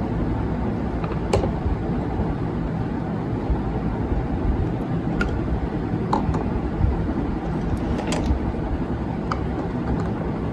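A steady low rumble, like traffic or machine noise, with a few light clicks scattered through it.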